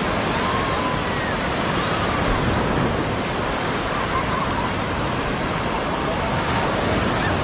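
Surf breaking on a sandy beach, a steady rushing wash of waves, with faint distant voices.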